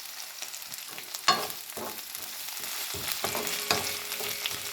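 Food sizzling in a frying pan while being stirred, with a few sharp knocks of the utensil against the pan, the loudest about a second in.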